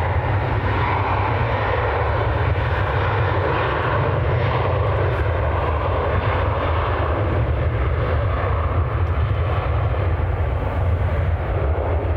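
Jet engines of a Ryanair Boeing 737 running at high power as it departs: a loud, steady jet noise with a strong deep rumble underneath.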